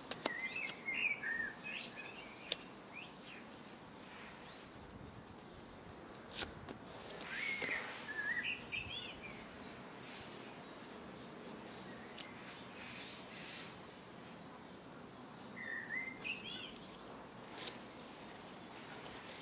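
A small songbird singing short chirping phrases three times, over a steady background hiss; a sharp click about six seconds in.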